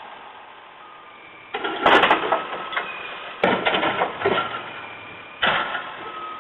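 Garbage truck at work: three sudden, loud noisy bursts about two seconds apart, each fading over about a second, with a steady whine between them.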